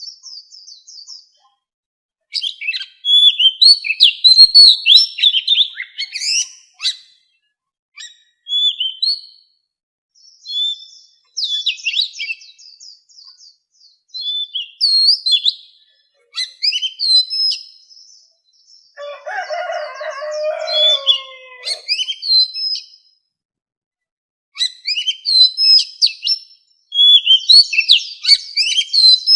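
Oriental magpie-robin singing in a wild-type song: short bursts of varied, sweet whistled and gliding notes separated by brief pauses. About two-thirds of the way through, a lower, rougher sound runs under the song for a few seconds.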